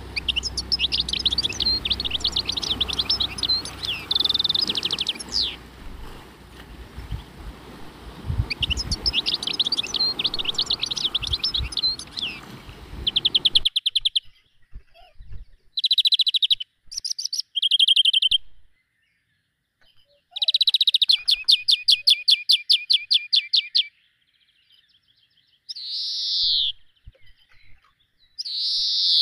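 Songbirds singing: quick chirping and trilling phrases over a background hiss. About 14 seconds in, the hiss stops abruptly and separate calls follow, including a fast run of repeated notes and two loud sliding calls near the end.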